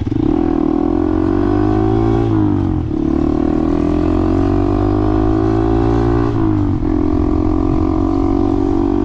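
A vehicle engine running close by, its pitch climbing slowly and then dropping back, once about three seconds in and again about six and a half seconds in.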